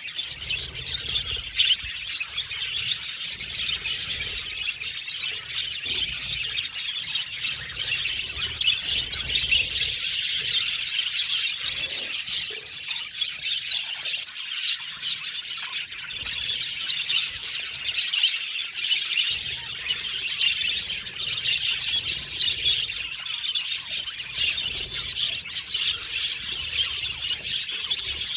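A flock of budgerigars in an aviary chattering without a break, many short chirps, warbles and squawks overlapping.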